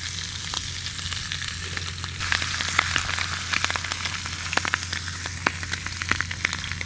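Lobster tail pieces sizzling in hot oil in a cast iron skillet, with many sharp pops and crackles. The sizzle grows louder about two seconds in as more pieces go into the pan.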